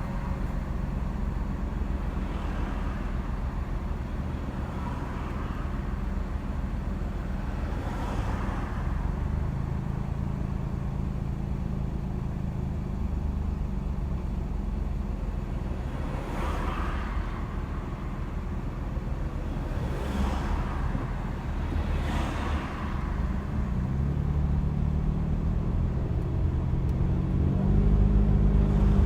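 Car driving along: steady engine hum and road noise, with four brief whooshes of vehicles passing at about 8, 16, 20 and 22 seconds. From about 24 seconds the engine climbs in pitch and gets louder as the car accelerates.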